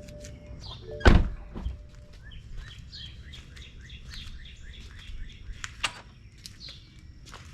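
A bird chirping in a quick run of short falling notes. There is a single heavy thunk about a second in, over a steady low rumble.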